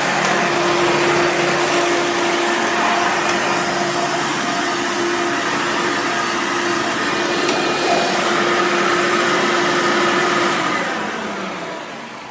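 Hoover Encore Supreme upright vacuum cleaner running steadily with a constant motor hum, then switched off about ten and a half seconds in, the motor winding down with falling pitch.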